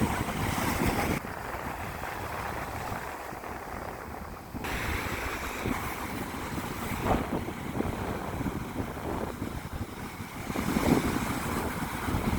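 Ocean surf breaking and washing up on a sandy beach, swelling louder as each wave comes in and easing between them, with wind buffeting the microphone.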